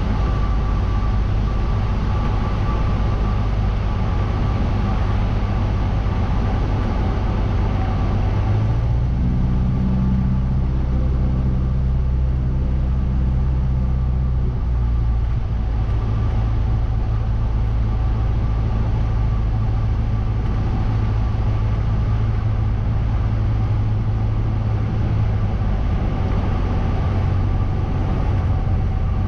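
Cessna 172's piston engine and propeller droning steadily, heard from inside the cockpit. About nine seconds in the low hum shifts and the higher hiss drops away, and the hiss comes back near the end.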